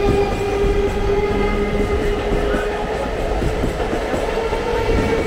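ICF-built electric multiple unit (suburban EMU) passing close by as it picks up speed: wheels clattering over rail joints under a low rumble, with a steady whine that steps up in pitch about halfway through.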